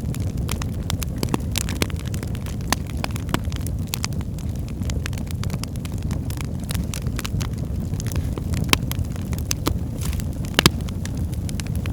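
Wood fire burning in a fireplace: a steady low rumble of flames with frequent irregular crackles and pops, two sharper pops near the end.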